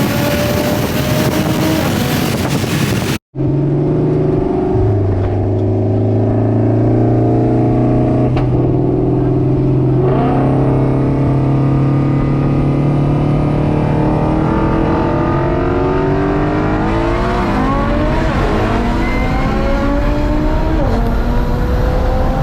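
Car engines running hard and accelerating, their pitch climbing through the gears, with an abrupt cut about three seconds in. Near the end several engines sound at once, their pitches crossing.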